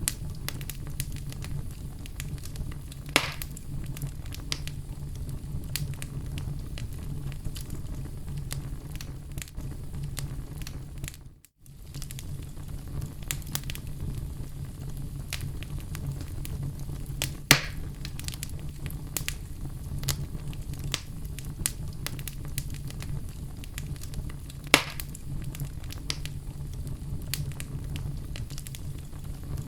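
Oak logs burning in a fireplace: a steady low rumble of flame with frequent small crackles and three louder pops, about 3, 17 and 25 seconds in. The sound fades away briefly to near silence in the middle and then returns.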